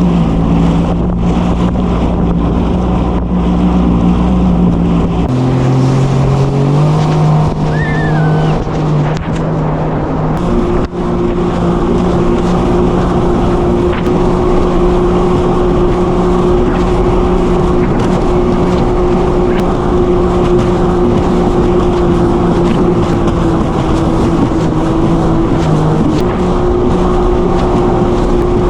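Jet ski engine running steadily under way. Its pitch drops about five seconds in, climbs back, then holds higher and steady from about ten seconds in as it runs at speed.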